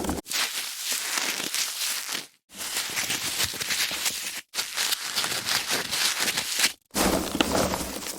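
Foam packaging being handled, a dense crackling rustle in four separate takes split by short breaks.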